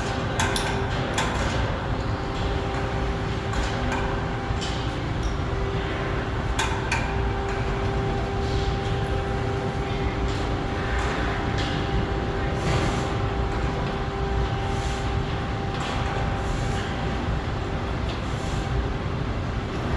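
Steady mechanical rumble with a constant hum, broken by occasional sharp clicks and knocks.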